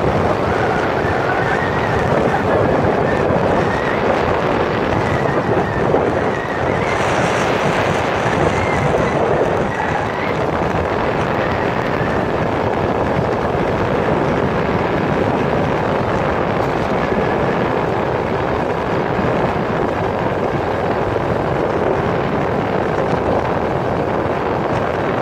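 Wind rushing over the microphone on a moving vehicle, with the vehicle running steadily underneath.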